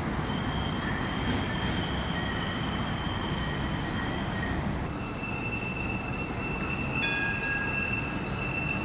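Tram wheels squealing as the tram rounds a curve: several steady high-pitched tones over the rumble of the wheels, shifting to new pitches about five seconds in and again near seven seconds. It is very noisy.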